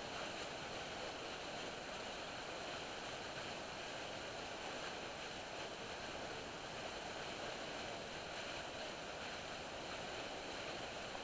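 Faint, steady outdoor background noise: an even hiss with no distinct events in it.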